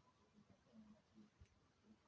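Near silence: faint background with a few soft low blips and a faint tick.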